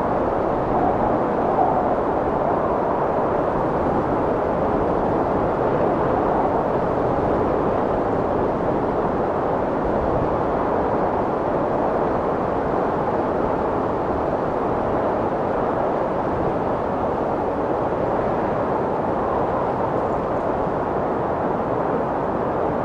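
Strong wind blowing steadily, a dense rushing noise centred in the mid range that holds nearly level without gusts or breaks.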